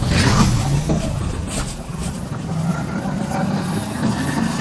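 Motorcycle on the move along a road: a steady low rumble of engine and road noise, with a brief rush of noise near the start.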